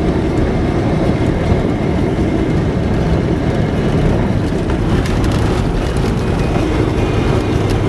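A vehicle driving along, with steady engine and road noise.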